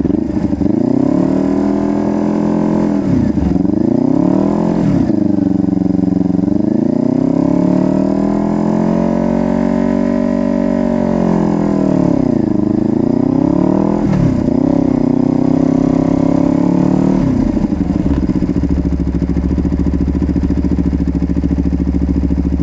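Honda CBR250RR motorcycle engine under way. Its pitch climbs and drops several times as it accelerates, shifts and slows, then it settles to a steady idle a few seconds before the end.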